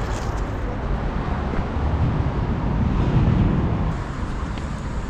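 Honda Shadow VT750's V-twin engine running while riding, with road and wind noise. It gets louder about two seconds in and eases off near the four-second mark.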